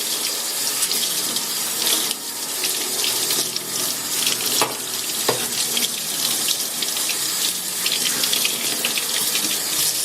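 Water tap running steadily into a sink while a soapy makeup sponge is squeezed and worked under the stream, with a couple of short sharp sounds about halfway through.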